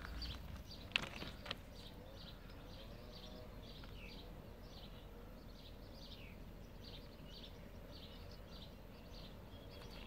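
Faint, repeated short bird chirps, some falling in pitch, with two sharp clicks about a second in.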